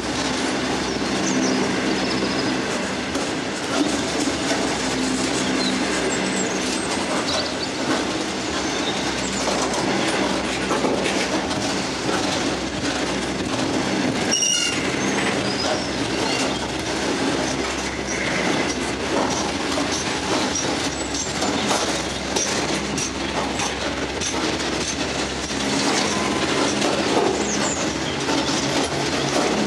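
Long EWS freight train of bogie hopper wagons rolling past close by: a steady rumble and clatter of steel wheels on the rails, with brief high wheel squeals now and then.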